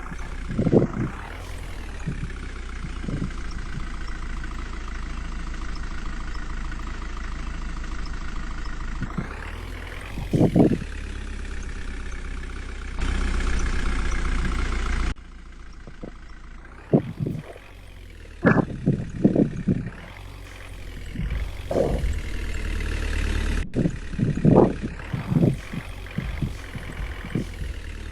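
Water tanker truck's engine running steadily at idle, with several short revs scattered through.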